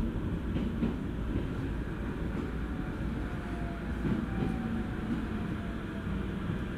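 E231 series electric train's running noise heard from inside the car: a steady low rumble with a few faint wheel clicks over rail joints in the first second. A faint falling whine comes in around the middle.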